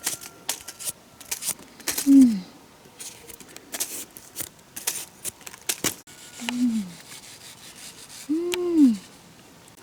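A man's voice giving short hooting 'ô' calls, three in all, each falling in pitch, with the last the longest. Sharp clicks and rustling sound between the calls, mostly in the first half.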